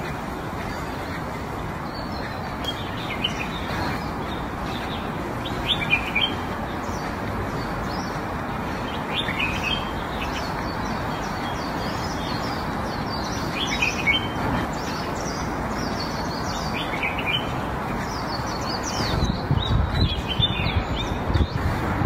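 Small birds chirping in short, scattered phrases over a steady background hiss. Near the end, a quick run of low crunching sounds as a giant panda chews a bamboo shoot.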